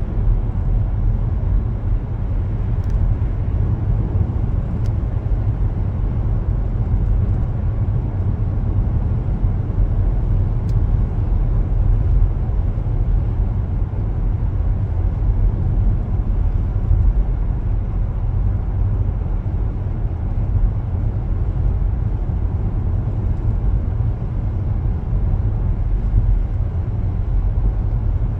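Car driving along at steady speed: a continuous low rumble of road and engine noise.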